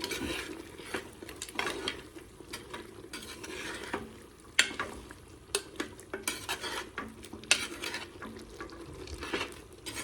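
Pork cooking in a pan being stirred, the utensil scraping and knocking against the pan in irregular strokes over a steady sizzle.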